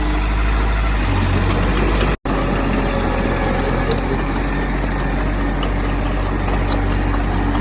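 Heavy diesel engine of earthmoving equipment running steadily with a deep low hum. The sound drops out for a split second about two seconds in.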